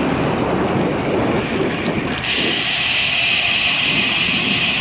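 Wind rushing over the microphone of a road bike in motion. About two seconds in, a steady high hiss from the tyres on the road starts suddenly, as the bike rolls onto fresh concrete, and runs on while the wind rumble drops.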